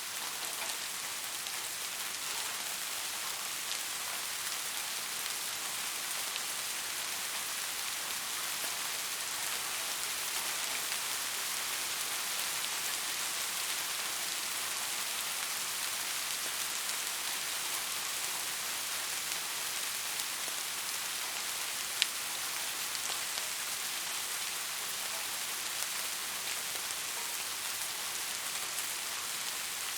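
Steady rain falling on hard surfaces, an even hiss of many drops, with one sharp drip-like tick about two-thirds of the way through.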